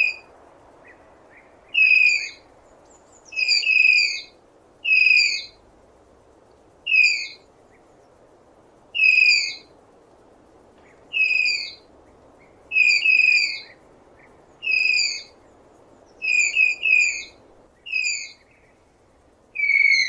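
Tapir giving high-pitched whistling squeals, short calls that dip slightly in pitch, repeated every second or two, some in quick doubles, over a faint background hiss.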